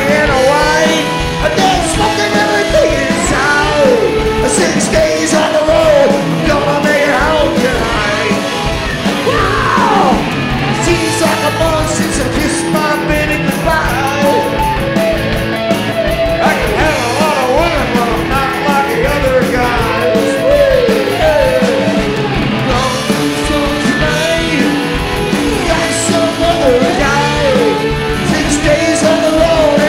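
Live rock band playing a song loudly, with a singer yelling the vocal over electric guitar, bass, lap steel and drums.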